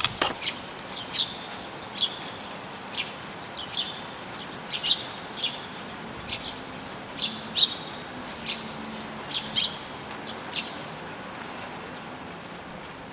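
A small bird calling, giving short sharp chirps at irregular intervals of about one or two a second.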